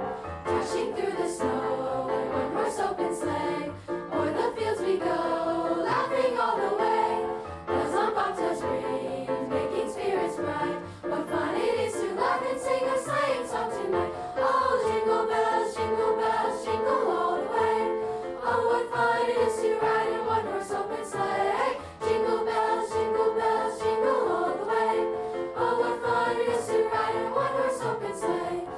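A school chorus singing a Christmas song in held, multi-part chords.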